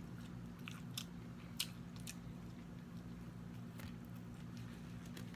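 Close-miked eating sounds: wet chewing with scattered small crunchy clicks as food is bitten and chewed, over a steady low hum.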